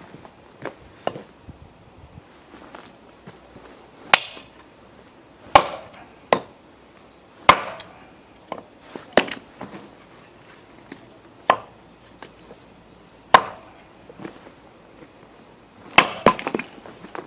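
Axe splitting firewood rounds: a series of sharp chopping strikes at irregular intervals, roughly one every one to two seconds, with lighter knocks and clatter of split pieces between them.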